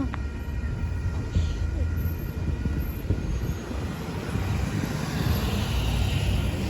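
Metra commuter train pulling slowly into the station: a steady low diesel rumble, with a hissing rush that swells in the last couple of seconds.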